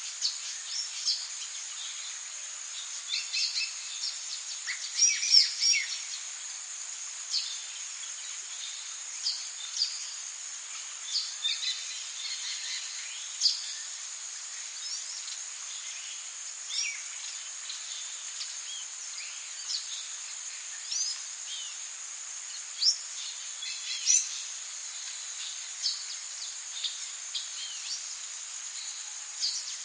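Tropical forest ambience: a steady high-pitched drone of insects with short bird chirps and calls scattered throughout, busiest about five seconds in.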